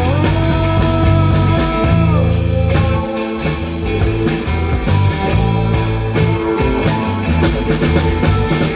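Live rock band playing an instrumental passage: electric guitar with a bent, sustained note in the first two seconds over bass guitar and a drum kit keeping a steady beat.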